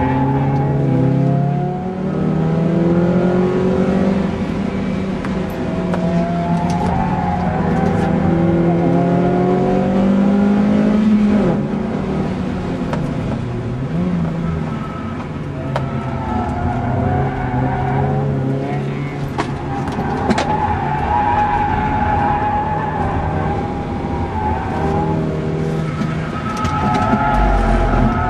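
Hyundai Coupé engine heard from inside the cabin under hard track driving, revving up through the gears and dropping back, its pitch rising and falling again and again.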